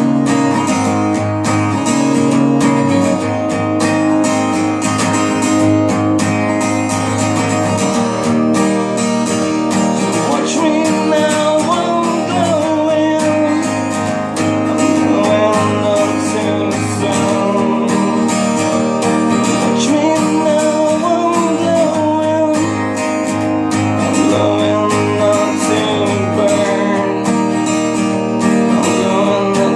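Instrumental passage of a ballad: acoustic guitar strumming steady chords, with a melody line that bends in pitch coming in over it about a third of the way through.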